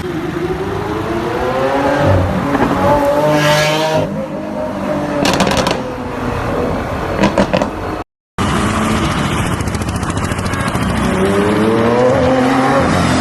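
Supercar engines revving and accelerating, rising in pitch over several pulls, with a few short sharp cracks partway through. The sound cuts out for a moment about eight seconds in, then the revving resumes.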